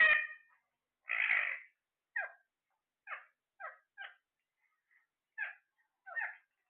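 Parrot calling: one longer, harsh call about a second in, followed by a string of six short squawks spaced about half a second to a second apart.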